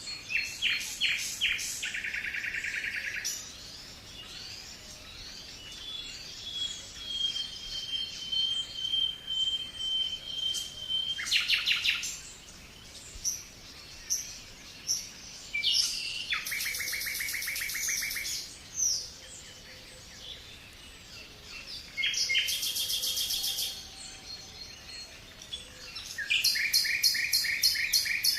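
A songbird sings loud phrases of rapid high trills, each lasting two to three seconds and repeated every few seconds, with fainter chirps between them. Partway through, a long, thin, steady whistle is heard.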